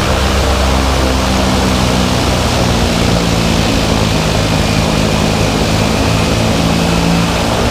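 Propeller aircraft's piston engine running loud and steady close by, a deep even drone under a rushing noise.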